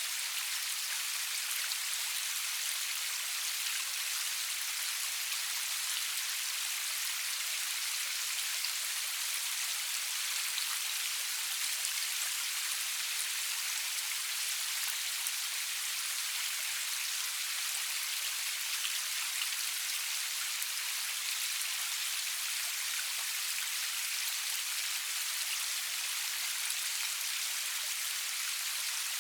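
Steady rain falling, an even hiss with fine drop patter and no thunder.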